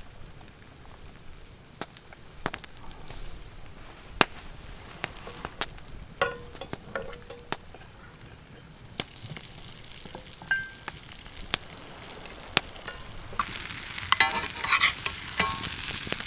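Food sizzling over a campfire, with scattered sharp crackles and pops from the fire; the sizzle grows louder near the end.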